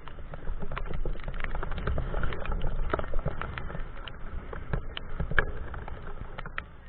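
Heavy rain during a bike ride: irregular sharp taps of raindrops on the microphone over a steady low rumble.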